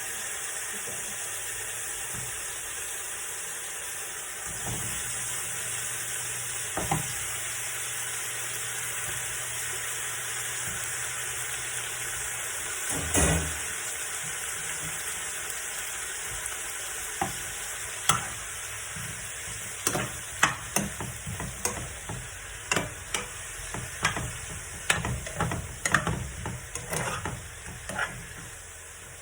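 Onion and garlic sizzling in oil in a frying pan, a steady hiss. A single knock about 13 seconds in, then from about 18 seconds a run of sharp clicks and scrapes of a utensil against the pan as the contents are stirred.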